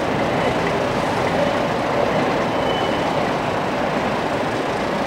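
Electric passenger train moving slowly along a station platform: a steady rumble of wheels on rail, with a faint high wheel squeal about halfway through.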